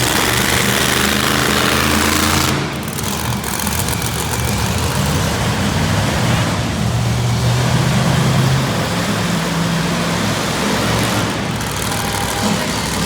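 Monster truck engine revving hard during a wheelie run, its note rising and falling. It eases off sharply about two and a half seconds in, then picks up again.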